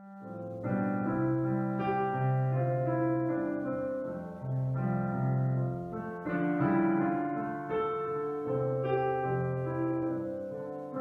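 Solo piano playing a slow introduction to a hymn in sustained chords that change about once a second.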